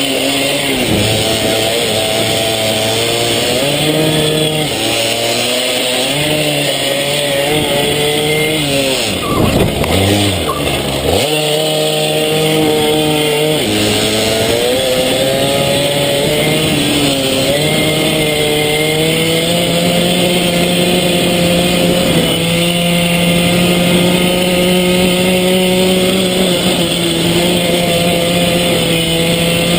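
Small pit bike engine revving hard on a track, its pitch stepping up and down as it shifts and changes speed. About ten seconds in the revs drop sharply and climb again, as when braking for a corner and accelerating out. It then holds a fairly steady high note.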